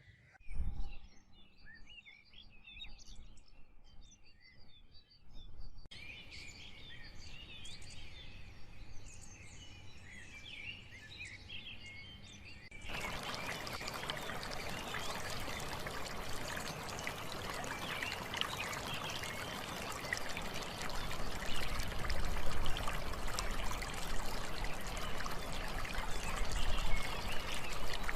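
Birds chirping. About halfway through, a steady rush of running water comes in under the birdsong and gets louder toward the end.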